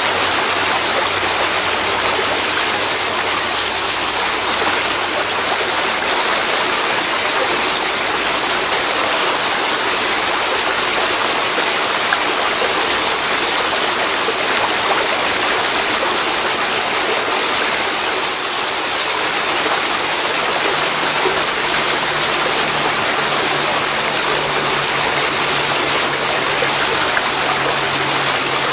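Waterfall pouring into a river: a steady, dense rush of falling and flowing water.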